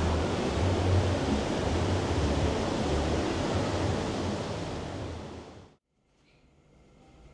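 Steady rushing water, loud with a deep rumble, that fades and cuts off suddenly near the end, leaving a much quieter background.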